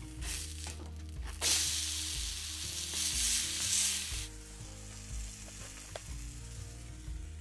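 Berry pancake frying in a hot cast-iron skillet. The sizzle swells loud about a second and a half in, holds for about three seconds, then settles to a softer frying hiss.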